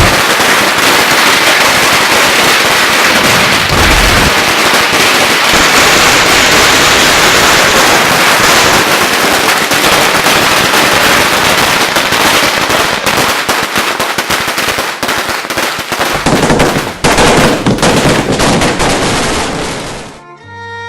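Loud, dense crackling with rapid sharp pops, stopping suddenly about a second before the end.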